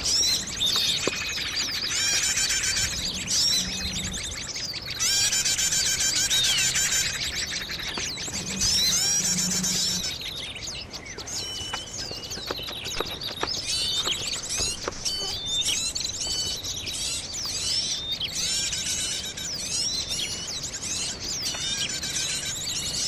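Small birds chirping and singing in quick, repeated phrases, with a few faint clicks in the middle.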